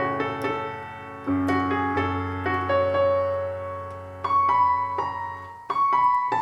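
Roland Juno-DS61 synthesizer playing a piano sound: sustained chords over bass notes, a new chord struck about every one to three seconds.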